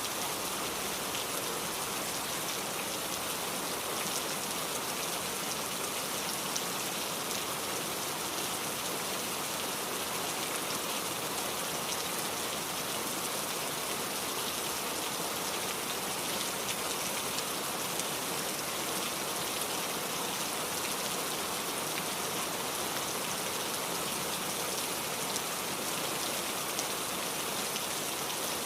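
Steady rain falling, with a constant hiss and fine pattering of drops.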